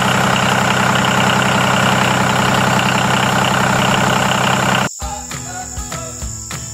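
A loud, steady motor-like running sound, even in pitch like an engine idling, that cuts off abruptly about five seconds in. After it comes quieter background music with a light, regular beat.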